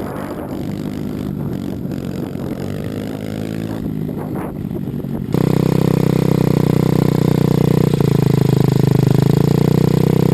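Small pit bike engine running, its pitch climbing as it revs up about four seconds in. About five seconds in the sound turns abruptly much louder and holds a steady drone at an even pitch.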